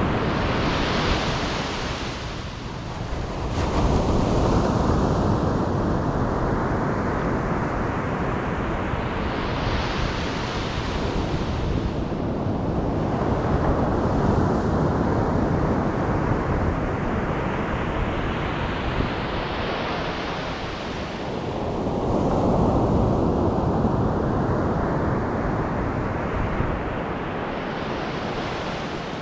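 Ocean surf: waves breaking and washing up the beach in slow surges about every nine to ten seconds, each wash hissing brighter as it spreads, over a steady low rumble of the sea. Some wind buffets the microphone.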